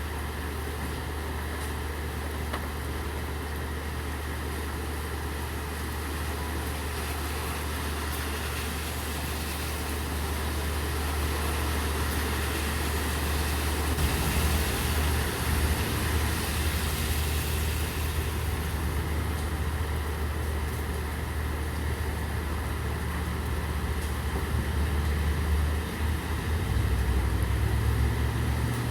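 Steady rain, with an idling vehicle engine holding a low, steady hum underneath. A louder hiss swells up in the middle and then fades back.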